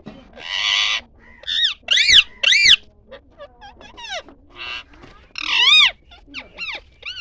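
A bird calling loudly: a harsh rasping screech at the start, then a string of sharp whistles that rise and fall, with further rasping calls around the middle.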